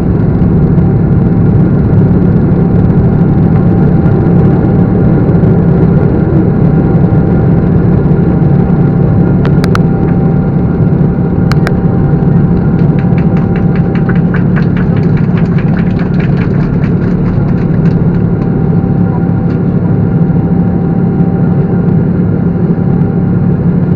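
Boeing 777's twin turbofan engines running with a loud, steady, low rumble and a few steady whining tones above it. Two sharp clicks come about ten and eleven and a half seconds in, followed by a run of fast rattling ticks for several seconds.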